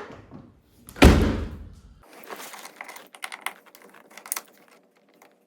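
A car door of a 1980 Mercedes-Benz 300TD (W123) slammed shut about a second in, being tested for fit after adjustment, with a short ringing decay. Then a run of light, scattered clicks and taps.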